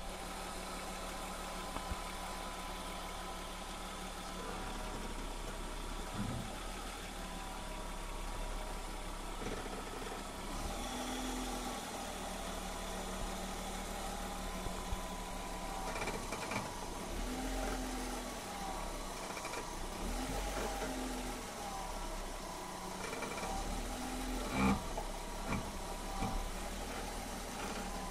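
A 1999 BMW E46's engine idling while the steering is turned. Several short groans and a few sharp knocks come through the hum: the noise from the front wheel that shows up when turning, especially to the left.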